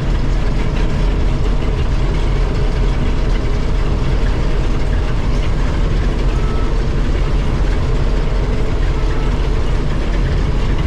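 Combine harvester's diesel engine and machinery running steadily under harvest load, a loud, even drone with a deep low hum.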